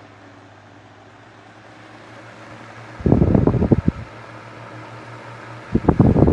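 Electric table fan running with a steady low hum, broken by two louder bursts of noise about a second long, one near the middle and one at the end.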